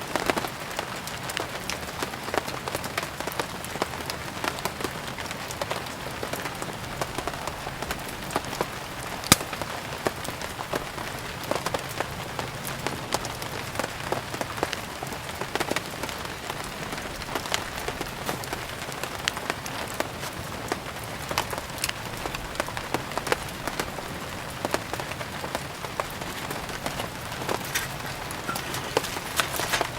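Steady rain falling on a surface, mixed with a wood fire burning, with many short sharp crackles and pops scattered throughout and one stronger pop about nine seconds in.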